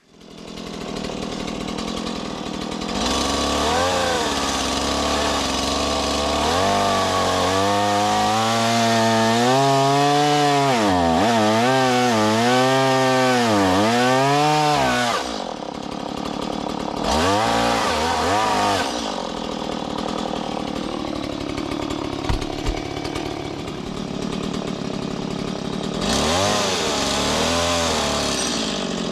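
Chainsaw cutting through a wooden shed post, its engine pitch repeatedly sagging and recovering under load in the cut. It drops back to a lower speed about halfway through and revs up again near the end.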